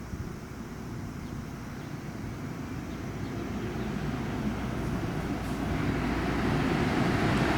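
A large bus approaching, its engine and road noise growing steadily louder.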